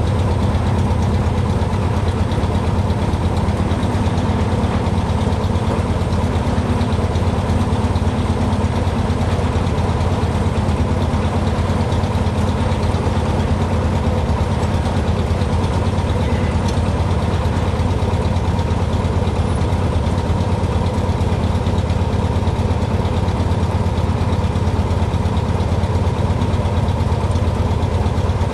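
Cessna 150's four-cylinder air-cooled Continental O-200 engine running at a steady speed, a low drone that does not change.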